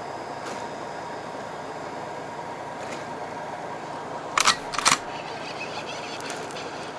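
Steady hum of a fishing boat's engine, broken about four and a half seconds in by two short, loud clatters close together.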